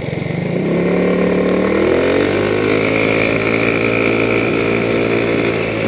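Motor vehicle engine running steadily with a pitched hum; the pitch shifts about two seconds in, then holds steady.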